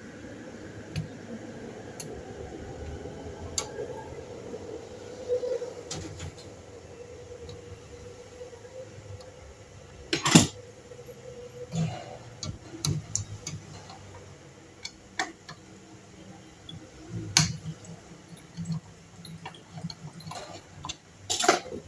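Scattered clicks and knocks of an electric fan being handled and taken apart by hand, with the loudest knock about halfway through. A faint steady hum runs through the first half.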